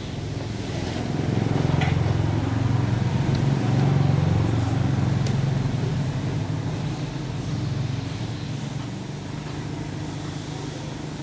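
A low engine rumble that swells over the first few seconds and then slowly fades, like a motor vehicle passing by.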